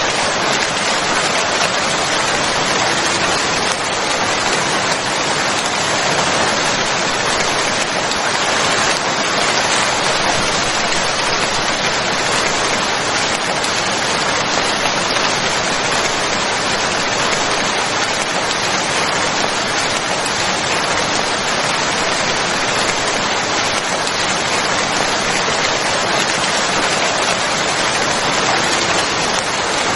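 Steady, even rain falling, a continuous hiss of many drops with no single drop or other sound standing out.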